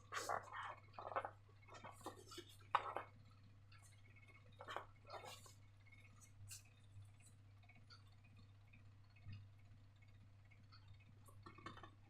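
Faint, scattered handling sounds from slime and balloon making: soft taps and small wet squelches, a few at a time with short gaps between.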